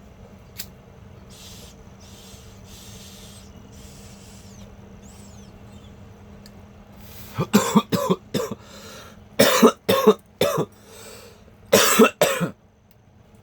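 A man coughing hard in fits: about nine rough coughs in three bunches through the second half, after a few seconds of faint breathy hiss.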